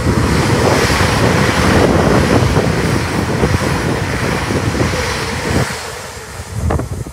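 CrossCountry Voyager diesel multiple unit passing at speed: a loud, steady rush of wheel, engine and air noise with wind buffeting the microphone, dropping away about six seconds in.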